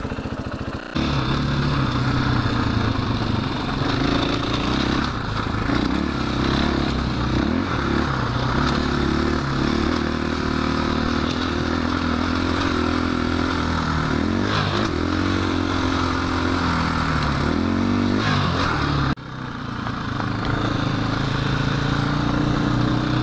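KTM 500 EXC-F single-cylinder four-stroke dirt bike engine running while riding a trail, its pitch rising and falling as the throttle opens and closes. The sound breaks off abruptly about 19 seconds in and picks straight up again.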